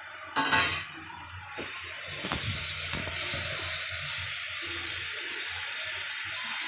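Spiced masala paste frying in oil in a steel kadai on a gas stove. There is a brief loud burst of noise about half a second in, then a steady sizzle that builds from about a second and a half and holds as the masala is roasted down.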